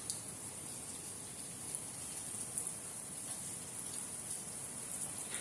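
Steady rain falling, an even hiss with scattered sharper ticks of drops striking a surface.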